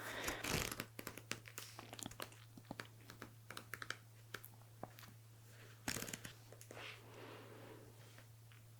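Pages of a paper book being leafed through: faint rustles and many small ticks, with one louder page turn about six seconds in, over a steady low electrical hum.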